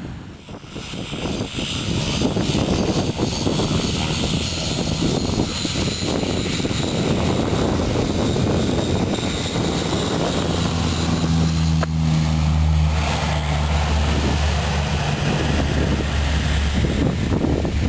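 Propeller aircraft engine running, a steady noise with a low drone that grows stronger about ten seconds in.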